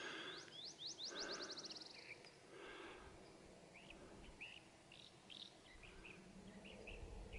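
Faint birdsong. A songbird gives a quick series of rising high notes that speed up and run together over the first couple of seconds, then scattered short chirps follow.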